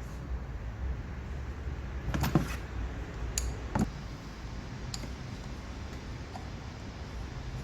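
Steady low hum of an idling car engine, with several short knocks and clicks; the loudest comes about two seconds in and others follow over the next few seconds.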